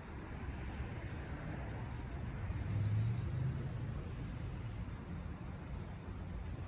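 Low, steady rumble of distant road traffic that swells as a vehicle passes a few seconds in, with a single brief high chirp about a second in.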